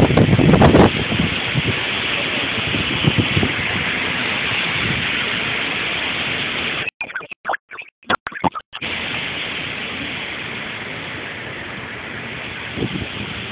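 Hurricane wind blowing steadily, with a strong gust buffeting the microphone in the first second. The sound cuts in and out for a couple of seconds around the middle before the steady wind noise returns.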